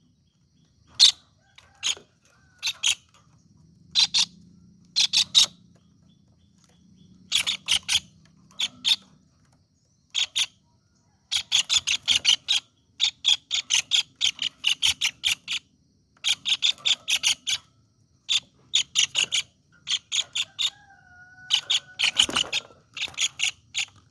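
A bird calling in repeated bouts of rapid, sharp, high chip notes, each bout about a second long and separated by short pauses.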